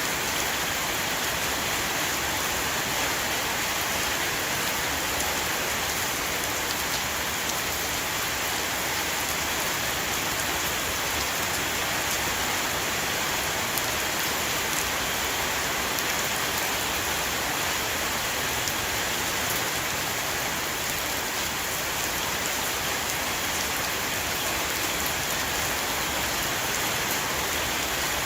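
Heavy rain shower falling on a roof: a dense, steady hiss of drops with fine individual patters over it, unchanging in strength.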